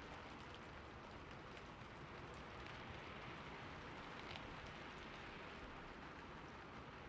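Steady, faint rain falling on a roof, with scattered individual drops ticking through the even patter.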